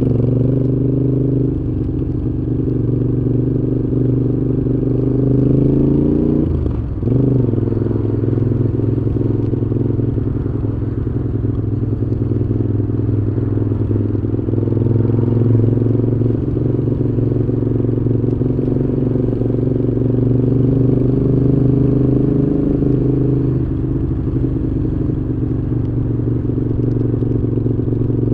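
Moto Guzzi V7's air-cooled V-twin running through Mistral exhausts while riding: the engine note climbs at first, drops sharply and climbs again about seven seconds in, then holds a fairly steady cruise with slight rises and falls.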